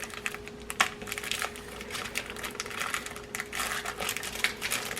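Plastic wrapper crinkling and crackling in irregular clicks as a wrapped chocolate bar is broken apart inside it.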